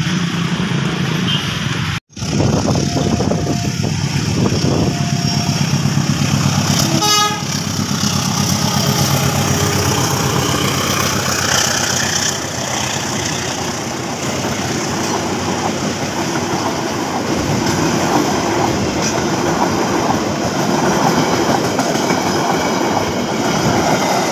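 Passenger train coaches rolling past at speed: a steady rumble and clatter of wheels on the rails, with a short train horn toot about seven seconds in.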